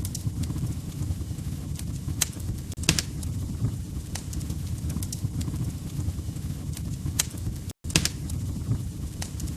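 Log fire crackling: a steady low rumble of burning wood with scattered sharp pops and snaps, the loudest a little after two seconds, near three seconds and a little after seven seconds in. The sound cuts out for an instant about eight seconds in.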